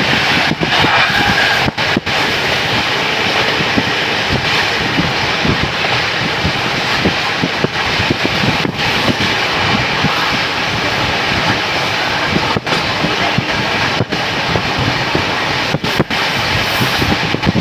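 Loud, steady running noise of a train on the rails, with a few very brief gaps in the sound.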